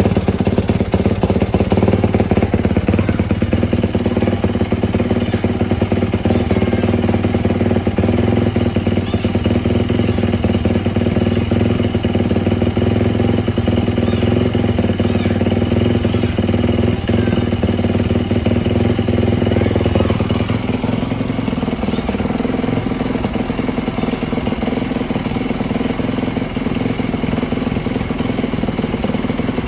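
Small motorcycle engine running steadily close by; about twenty seconds in, its sound shifts and drops a little in level.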